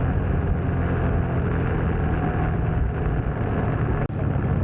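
Motorcycle engine running steadily under way, mixed with wind and road noise. There is a brief break in the sound about four seconds in.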